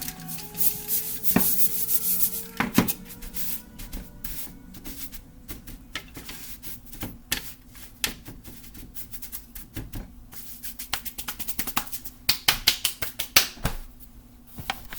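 Buttered panko crumbs poured and spread out on a foil-lined baking sheet: crisp rustling and scraping on the foil, busiest in the first few seconds and again near the end. Soft instrumental music plays underneath.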